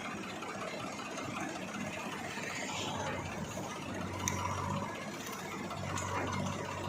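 A diesel engine running steadily, its low hum growing stronger about four seconds in.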